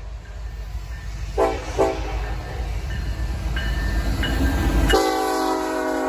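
Diesel freight locomotive's air horn: two short blasts about a second and a half in, then a long held blast starting near the end. Until the long blast begins there is a low rumble underneath, which then stops abruptly.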